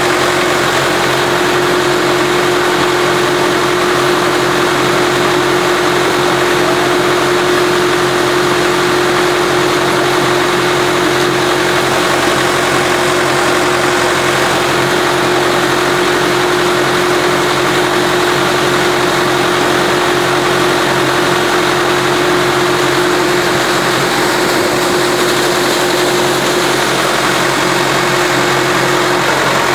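Tractor engine running steadily, driving a vertical turbine pump, with a constant hum throughout.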